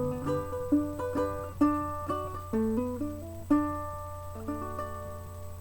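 Closing guitar lick: a run of single picked notes, ending on a chord about four seconds in that rings out and fades, over a faint steady low hum.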